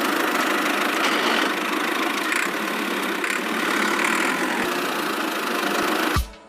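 A motor running steadily at an even level, cutting off abruptly near the end.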